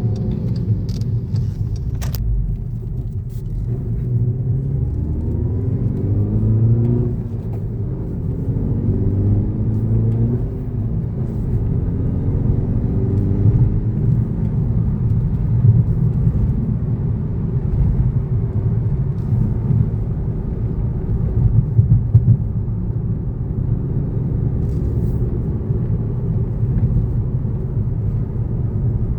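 2012 Volkswagen GTI's 2.0-litre turbocharged engine pulling through several upshifts in the first half, its pitch rising and dropping back at each shift. It then settles into a steady cruise with low road rumble.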